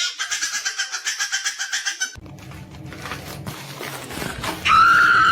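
A cat crying: a high, rapidly wavering yowl for about two seconds. Near the end comes one loud meow that rises and then falls.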